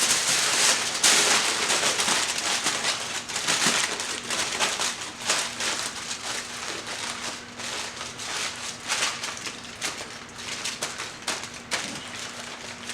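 Aluminium foil crinkling and rustling in irregular bursts as it is folded and pressed around a pork shoulder, with a faint steady hum underneath.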